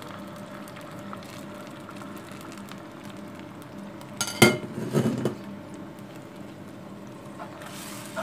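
Sliced onions and whole spices sizzling softly in hot ghee in a pan, with one ringing metallic clink about four seconds in and a smaller knock just after. The hiss grows brighter near the end.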